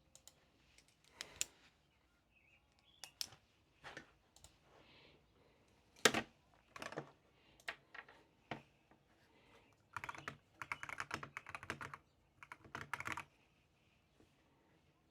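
Typing on a keyboard: scattered single keystrokes, then quicker runs of typing about ten and thirteen seconds in.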